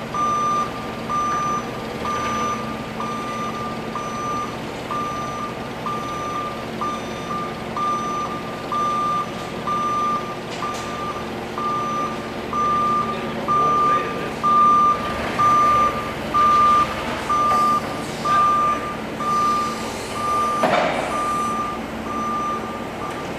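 Forklift back-up alarm beeping steadily, about one and a half beeps a second, over the low hum of the machine running.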